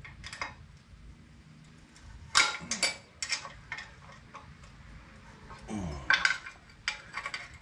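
Irregular metallic clicks and clinks of a wrench working on bolts as the go-kart's engine is tightened down on its mount, coming in short clusters.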